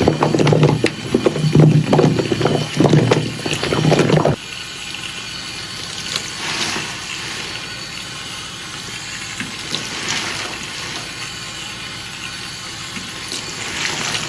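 A soapy, foamy sponge squelching and sloshing in water in quick irregular squeezes; about four seconds in this stops suddenly and a steady rush of running water follows, swelling a few times.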